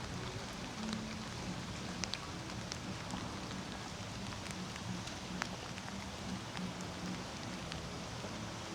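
Steady rainfall, with scattered individual drops ticking sharply close by.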